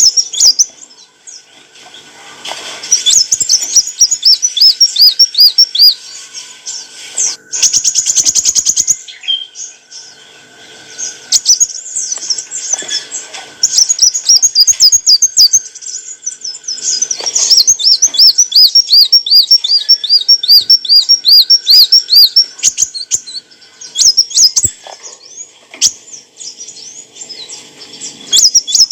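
Kolibri wulung sunbird singing: loud runs of rapid, high, repeated chirping notes lasting a few seconds each with short pauses between, and a very fast buzzy rattle about eight seconds in.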